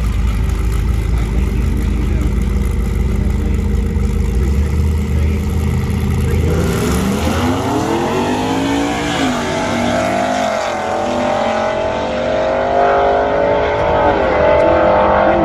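Street truck's engine rumbling steadily, then from about six seconds in accelerating hard, its pitch rising and dropping back several times as it shifts through the gears.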